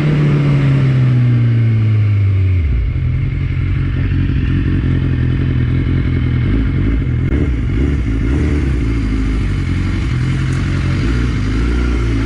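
Superbike engine with an aftermarket Akrapovic exhaust: the revs fall away over the first two or three seconds, then it runs steadily at low revs.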